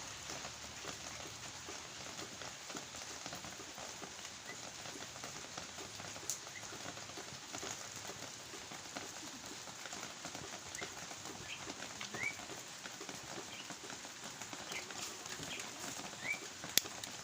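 Steady rain falling, an even patter, with a few short rising chirps in the second half.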